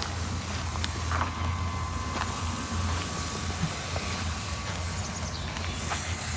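A steady low mechanical hum with a faint higher whine, and a few faint clicks.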